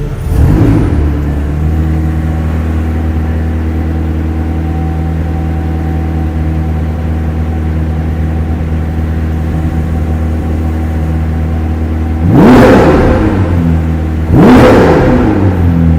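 McLaren 765LT's twin-turbo V8 idling steadily, then revved twice near the end in quick blips about two seconds apart, each rising sharply and dropping back to idle.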